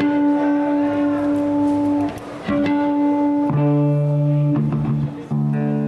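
Live band's amplified guitars playing long, held chords, changing chord about every second or two with short breaks between them; a lower bass part joins about halfway through.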